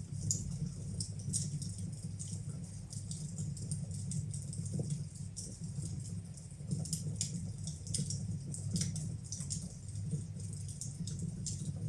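Fire burning in a fireplace: irregular sharp crackles and pops over a steady low rumble and hiss of the flames.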